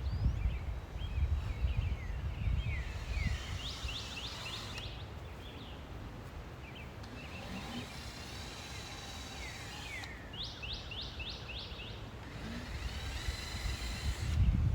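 Songbirds singing: repeated phrases of short downward-sliding whistles, with a fast trill about four seconds in and another about ten seconds in. Low wind rumble on the microphone, strongest at the start and near the end.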